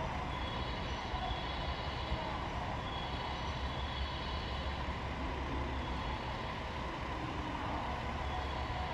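A train pulling away along the tracks from the station, a steady rumble with faint high squealing tones coming and going.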